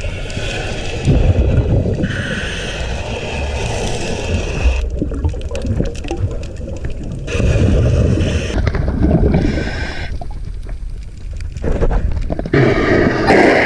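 Underwater noise of a diver's recording: a heavy low rumble with gurgling water and bubbles, changing abruptly several times between cuts.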